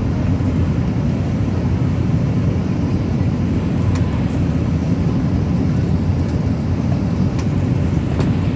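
Steady low rumble of engine and airflow noise inside an Airbus A320-214's cabin on approach with the flaps extended, an even roar with no change in level.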